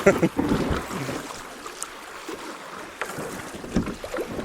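Kayak paddles splashing in moving creek water over a rocky shoal, with a few short sharp splashes or knocks standing out against the steady water noise.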